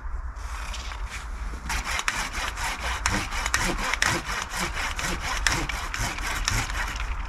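Hand saw cutting through wood in quick, steady back-and-forth strokes, starting about a second and a half in.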